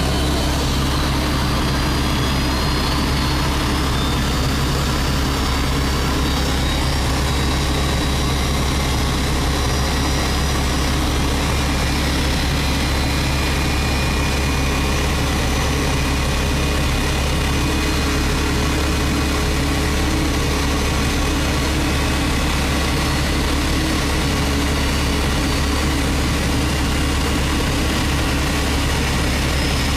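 Steady heavy engine drone with a faint high turbine whine slowly gliding in pitch, from an Airbus A321 pushback: tug and aircraft engines running.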